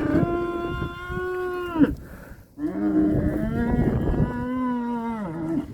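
Cattle mooing: two long, steady calls, the first ending about two seconds in and the second starting shortly after and lasting about three seconds.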